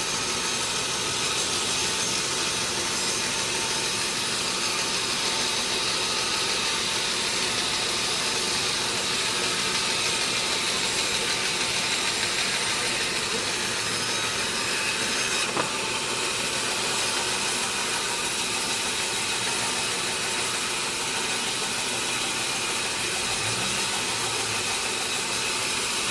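Sawmill saw cutting through a large teak log: a steady, unbroken hiss of the blade in the wood with a faint whine, and one sharp click a little past halfway.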